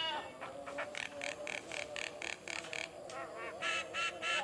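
Songbird singing a varied song: calls that bend in pitch, a fast run of short repeated notes at about five a second in the middle, then more bending calls near the end.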